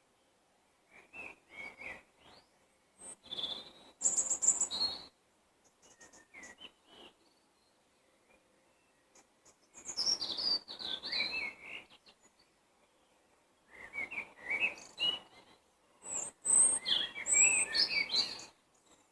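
Songbirds singing in the countryside: about six short, quick phrases of chirps and whistled notes, each a second or two long, with pauses of a second or more between them.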